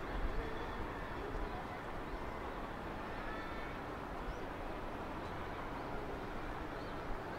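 Steady outdoor background rumble and hiss, with a few faint, short, high bird chirps.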